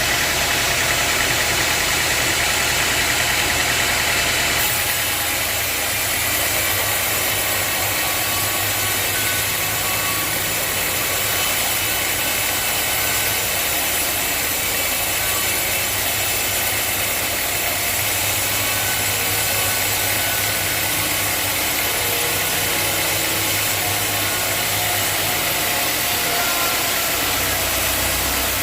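Sawmill machinery running steadily with an engine-like hum; the sound changes abruptly about five seconds in.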